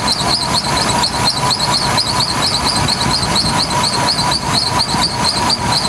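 Chevrolet 4.3-litre V6 idling with a steady, rhythmic chirping squeal, about ten chirps a second over a constant whine, from a squalling serpentine belt on the alternator drive.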